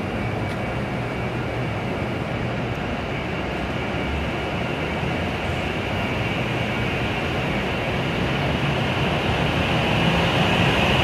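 W7 series Shinkansen train pulling out of the station, a steady running noise that grows gradually louder as it gathers speed past the platform.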